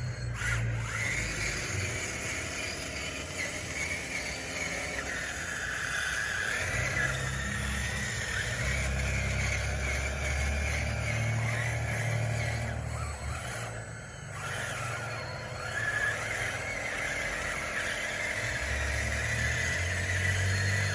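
Radio-controlled bulldozer working: a steady mechanical whine from its electric drive and gearing, with pitch that rises and falls as it pushes dirt. The sound dips briefly about two-thirds of the way through.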